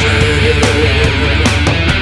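Hard rock band recording: distorted electric guitar holding a note over bass and a steady drum beat.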